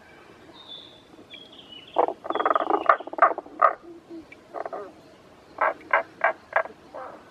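Frogs croaking: a dense burst of rapid pulsed croaks about two seconds in lasting nearly two seconds, a few single croaks, then a run of five short croaks near the end. A faint high thin note slides slightly downward over the first few seconds.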